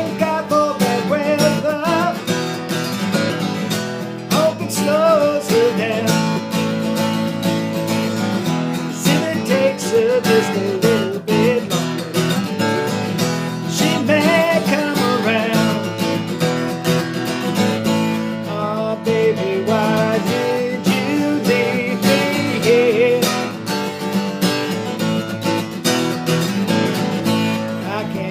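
Country music: strummed acoustic guitar carrying an instrumental passage, with a wavering melody line over it.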